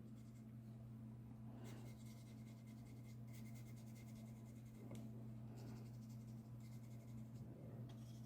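Faint scratching of a paintbrush stroking gouache onto watercolour paper, in several strokes of a second or more with short pauses, over a steady low hum.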